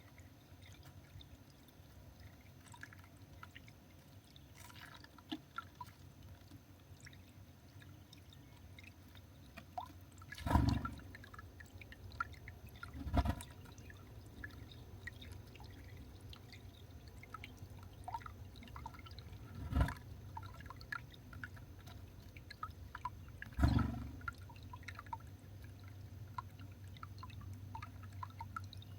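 Outdoor garden ambience at a bird feeder: faint, scattered short chirps of small garden birds over a steady low rumble, broken by four brief louder low thumps.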